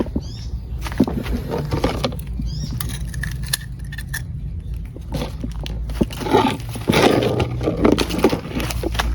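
Hands rustling and crackling through dry leaf litter while gathering snails, with scattered clicks. The handling grows louder and denser about six seconds in, and two short high chirps come early on.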